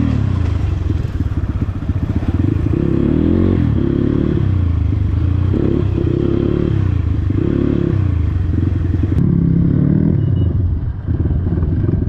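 Dirt bike engine running under constantly changing throttle, its revs rising and falling about once a second as it is ridden off-road.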